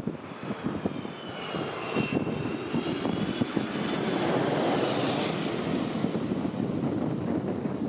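Jet airliner passing close by: its engine whine glides down in pitch as the roar swells to a peak about halfway through and then eases. Gusty wind buffets the microphone throughout.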